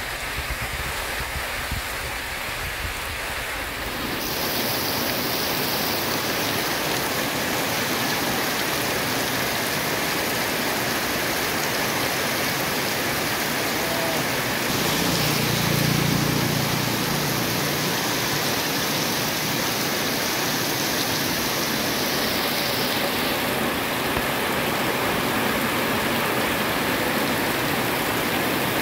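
Heavy rain pouring steadily onto a paved street. About halfway through, a vehicle briefly passes beneath the downpour.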